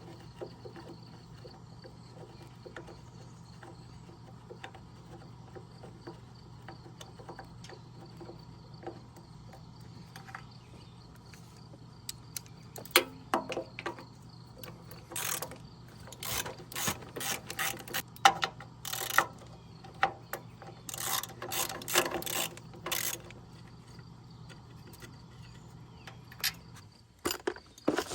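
Hand tools working on metal engine parts: scattered clicks and clinks, coming in dense clusters through the middle to the later part, over a steady low hum.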